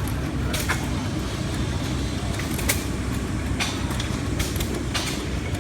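Rider-Ericsson 8-inch hot air engine running: a steady low rumble with sharp clicks about once a second.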